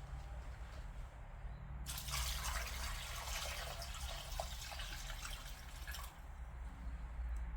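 Kitchen tap turned on, water running into the sink for about four seconds and then shut off, over a steady low hum.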